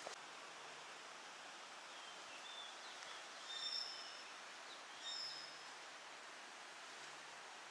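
Faint steady outdoor hiss with bird calls: a few short, high chirps about three and a half seconds in and again about five seconds in.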